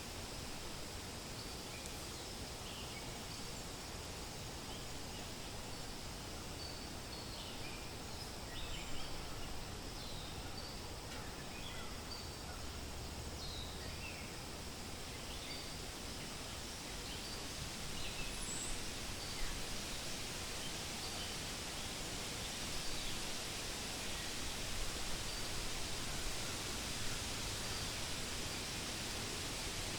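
Steady wind rustling through forest leaves, with scattered short, high bird chirps from small songbirds, most frequent in the first two-thirds. The wind grows a little louder about two-thirds of the way through.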